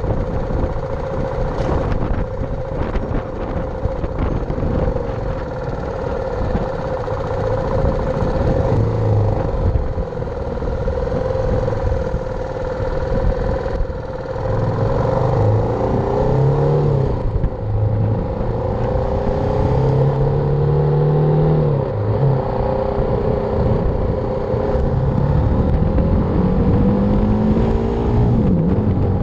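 BMW G310R's single-cylinder engine running while riding. The engine note holds steady at first, then rises and falls several times through the second half as the bike speeds up and slows.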